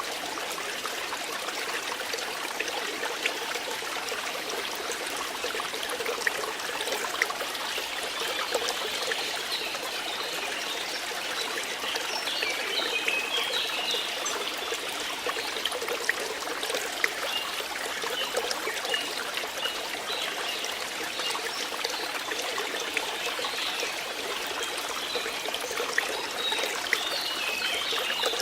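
Running water trickling and flowing steadily.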